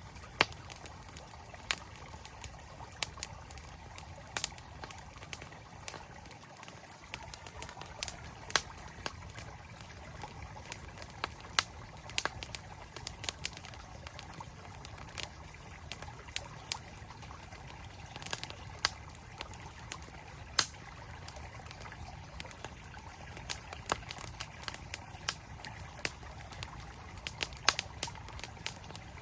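Campfire crackling, with sharp irregular pops and snaps a few times a second, over the steady rush of a flowing mountain stream.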